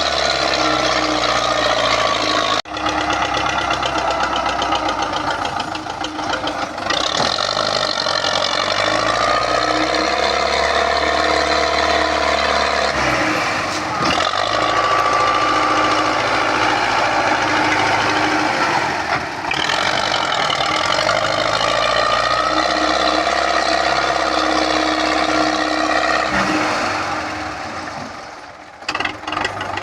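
MTZ tractor's diesel engine running, its steady note changing abruptly at several cuts between clips.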